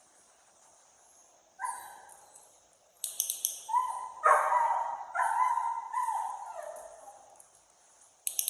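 A dog giving a series of drawn-out whining howls, the first rising in pitch and the last falling away, after a brief short call. Sharp high clicks come just before the howls and again near the end.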